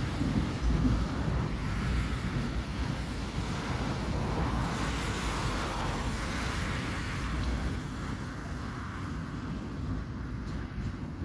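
Long, heavy freight train rolling past behind a Class 232 'Ludmilla' diesel locomotive, a steady low rumble that eases slightly near the end.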